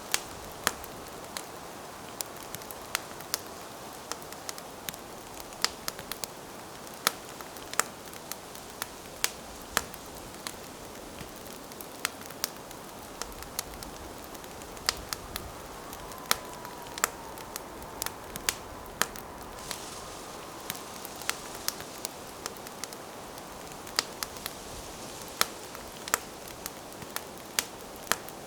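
Campfire burning: a steady hiss of flame with sharp, irregular crackles and pops of burning wood, one to three a second.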